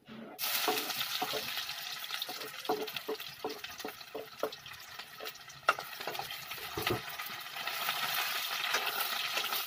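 Chopped garlic and ginger dropped into hot oil in a steel kadai, starting a sudden, steady sizzle about half a second in. A metal spatula scrapes and taps against the pan as the frying mix is stirred.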